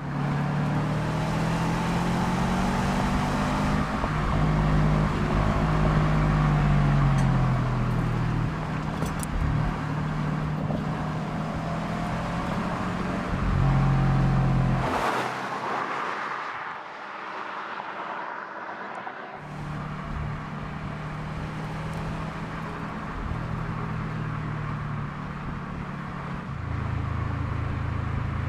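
2010 Subaru WRX STI's turbocharged flat-four engine and exhaust, its note rising and falling as the car is driven. About halfway through it swells to its loudest and the deep engine sound then drops away for a few seconds before the car is heard running steadily again.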